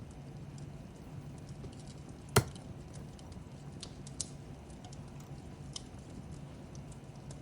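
Fireplace crackling: a steady low rumble of burning with scattered, irregular crackles and one loud sharp pop about a third of the way through.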